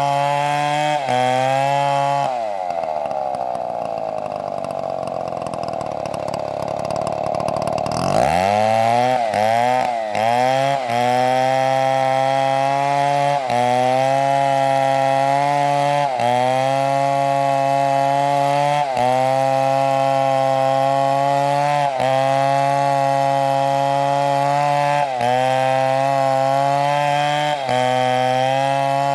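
STIHL chainsaw running at high revs while cutting wood. A couple of seconds in, its pitch sinks and stays low for about six seconds, then it revs back up in a few quick rises and holds steady at full throttle.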